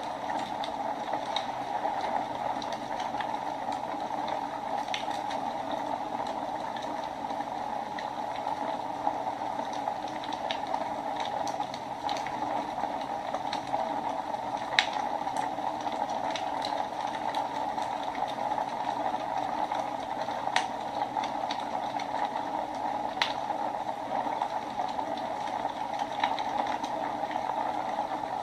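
Wood fire burning in a fireplace: a steady rushing hiss with irregular crackles, and a few sharper pops from the burning logs.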